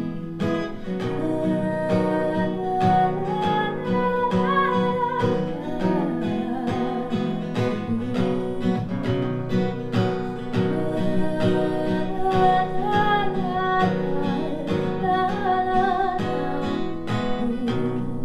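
Live acoustic song: an acoustic guitar strummed in a steady rhythm under a singer's held, wavering vocal notes.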